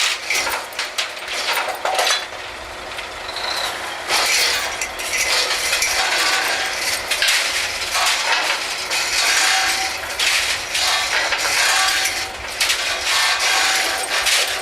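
Drilling rig floor machinery as the tongs tighten a drill pipe connection: a run of metallic clicks and clanks, then a louder, dense mechanical clatter from about four seconds in.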